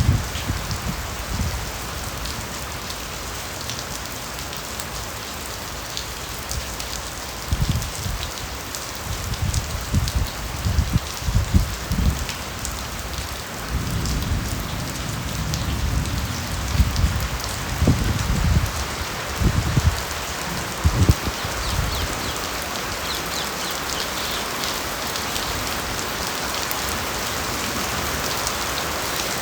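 Steady rain falling on bamboo foliage: a dense, even hiss of drops with individual drops ticking through it. Irregular bouts of low rumbling come and go through the first two-thirds, then the rain runs on evenly.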